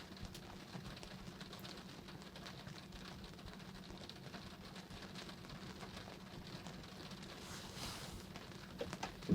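Light rain pattering, faint and steady, over a low steady hum.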